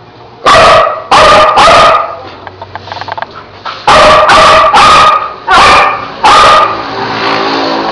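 Domestic dog barking loudly at close range: a quick run of three barks, a pause, then five more.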